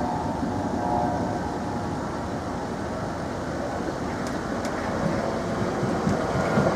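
A South Western Railway Class 455/456 electric multiple unit approaching and passing close by, its running noise and wheels on the rails growing louder, with a couple of sharp clicks about four and a half seconds in.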